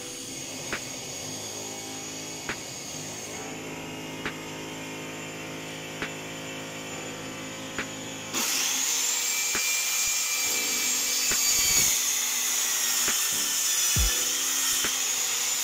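Handheld electric circular saw running and cutting a long straight cut in plywood along a homemade guide board: a loud, steady whine over the rasp of the blade in the wood. It comes in abruptly about eight seconds in, after a stretch of quieter steady hum with a soft tick roughly every two seconds.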